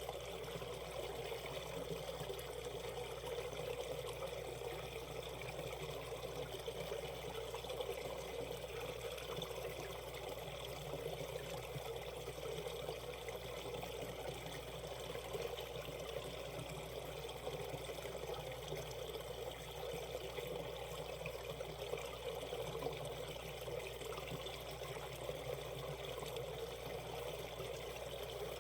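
Mountain stream water running and trickling over rocks, a steady babbling flow with no pauses.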